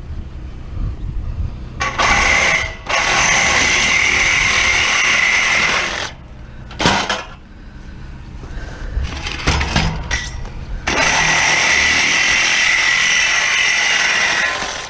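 A handheld power tool running at speed in two long bursts of about four seconds each, with a brief burst between them, working on scrap metal.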